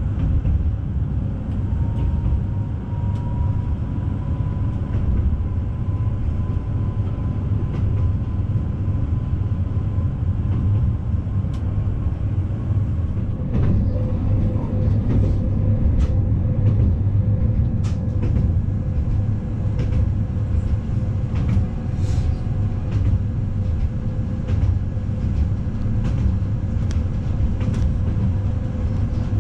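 Inside a Newag Impuls 2 regional train running at speed: a steady low rumble of wheels on the rails, with scattered clicks over the track. A faint high whine in the first half gives way to a lower steady whine from about halfway through.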